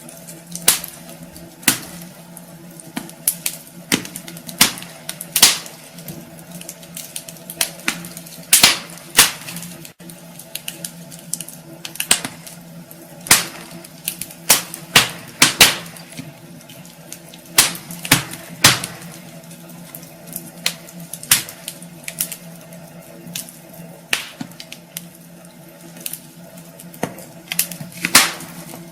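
Wood fire crackling in a fireplace: irregular sharp pops and snaps, some loud, over a soft steady hiss and a faint low hum.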